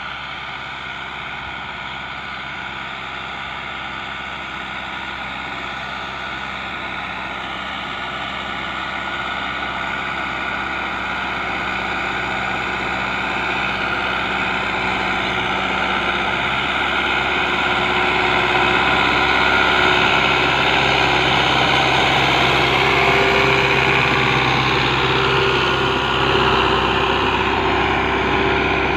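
Tractor engine running steadily, growing louder over the first twenty seconds or so and then holding level.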